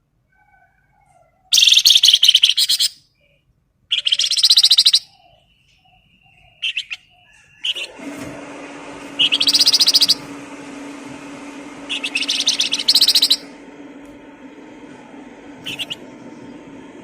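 A songbird singing loud, rapid trilled bursts of about a second each, repeated every few seconds, with faint softer calls between them. A steady low hum and hiss come in about halfway through.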